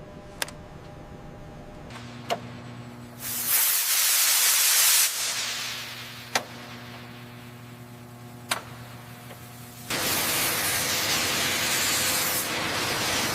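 Workshop noise: a low steady hum broken by four sharp clicks, a loud burst of hissing air about three seconds in lasting about two seconds, then a loud steady hiss from about ten seconds in.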